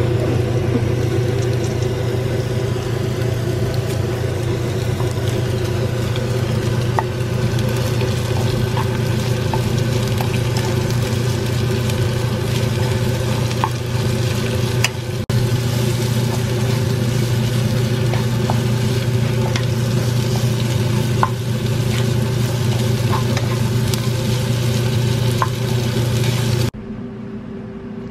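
Chicken gizzards, sliced onion, green chilies and garlic sizzling in oil in a nonstick wok as they are stir-fried, with the wooden spatula clicking against the pan now and then, over a steady low hum. Near the end the sizzling stops abruptly, leaving only a quieter hum.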